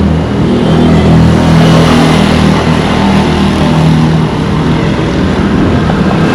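A motor vehicle's engine running close by, a loud, steady low hum.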